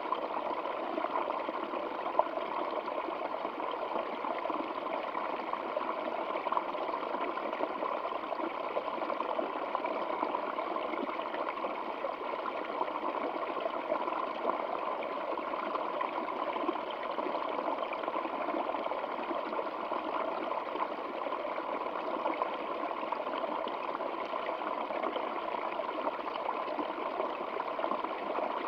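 Stream water flowing steadily, an even babble and trickle of running water.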